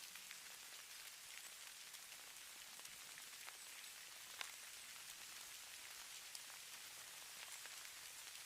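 Falling snow: a faint, steady hiss of fine pattering on a surface, dotted with scattered light ticks, one a little louder about four seconds in.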